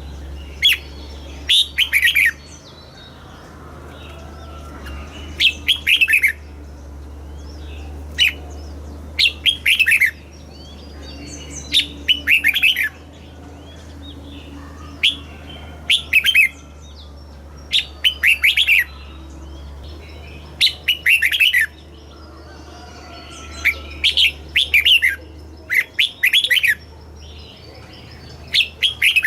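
Red-whiskered bulbul singing short, repeated warbled song phrases, a new phrase every two to three seconds, over a steady low hum.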